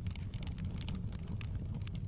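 Wood fire burning: a steady low rumble of flames with many small, quick crackles and pops from the burning logs.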